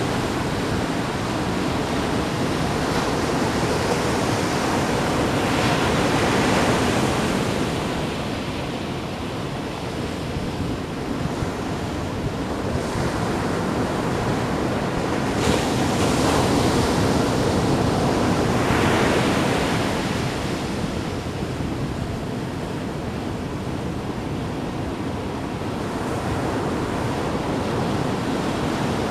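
Ocean waves splashing and washing in steadily, swelling louder about every ten seconds as larger waves break, with wind over the microphone.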